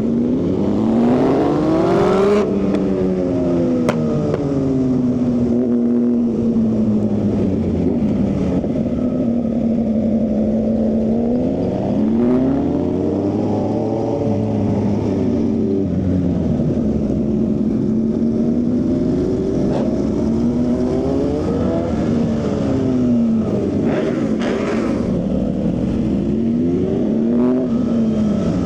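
Motorcycle engine and exhaust under way, the revs climbing and dropping several times with steadier stretches in between.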